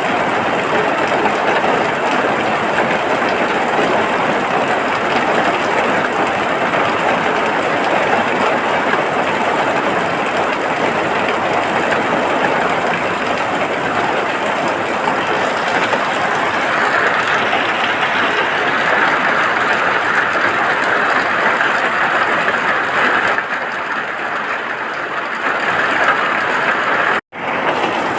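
Steady rain falling, an even hiss with no let-up, briefly cutting out to silence about a second before the end.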